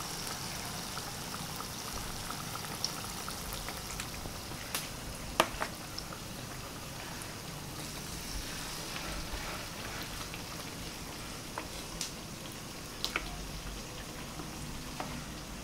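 Banana fritter batter frying in hot oil in a wok: a steady sizzle. A few sharp taps cut through it, the loudest about five seconds in.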